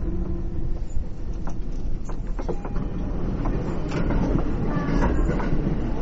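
Yamanote Line E231-500 series electric train running, heard from inside the car: a steady rolling rumble with scattered rail-joint clicks. A faint motor whine falls in pitch and fades in the first second, as the train slows.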